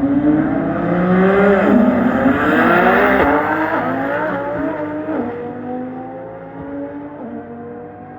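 Street car engine accelerating hard in a roll race, its pitch climbing and dropping back at each upshift about three times, then fading as it pulls away down the track.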